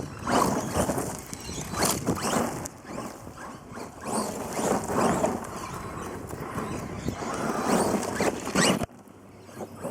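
Brushless electric motor of an RC monster truck whining up in short repeated bursts of throttle, several in quick succession. The sound drops away abruptly about nine seconds in.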